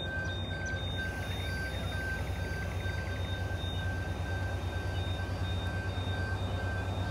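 Coal train's hopper wagons rolling past: a steady low rumble of wheels on the rails.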